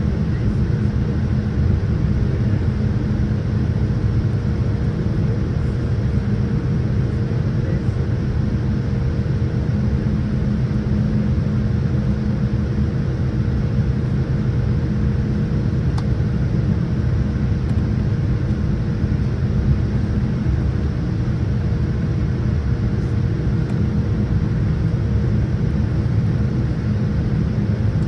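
Steady low rumble inside a Boeing 787-10 airliner's cabin as it taxis after landing, with a faint constant hum over it.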